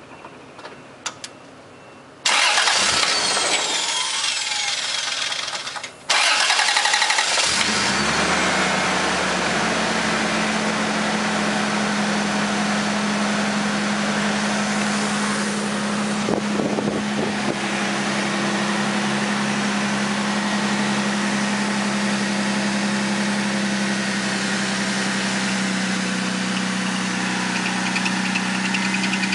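Toyota 5M-GE 2.8-litre straight-six in a 1985 Cressida being cranked by the starter, which stops briefly and cranks again. The engine catches and settles into a steady idle, which drops slightly in pitch near the end.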